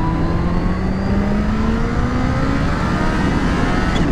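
Kawasaki Ninja H2's supercharged inline-four engine pulling under throttle while riding, its pitch rising steadily as the bike gains speed in one gear, over wind noise.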